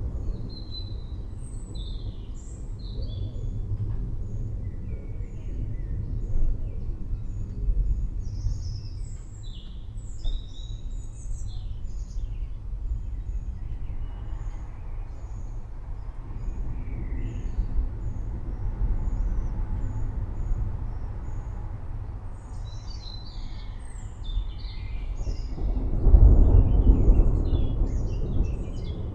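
Low rolling thunder rumbling continuously, with many birds chirping over it. The thunder swells louder near the end.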